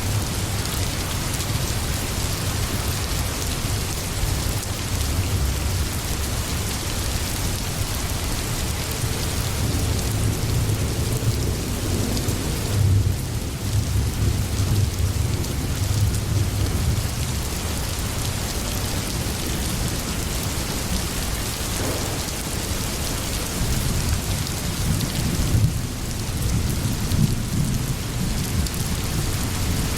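Steady heavy rain with a low rumble of thunder underneath that swells twice, about a third of the way in and again near the end.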